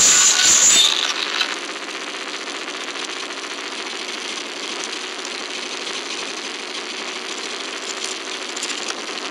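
Motorcycle engine running steadily while riding along. A louder rushing noise cuts off abruptly about a second in, leaving the even engine sound.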